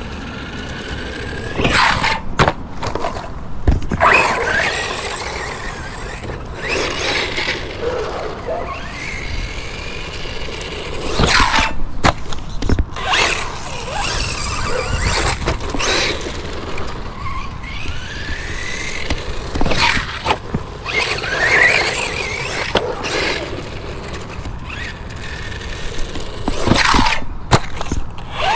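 Hosim HB17 1/16-scale brushless RC truck driving, its motor whine rising and falling with the throttle, with frequent sharp knocks and clatter as it runs over the ground.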